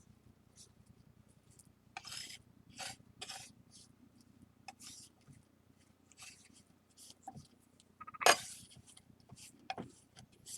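A tool scraping and stirring flour and water into a paste on a tray, in short, irregular strokes with pauses between them. The sharpest stroke comes about eight seconds in.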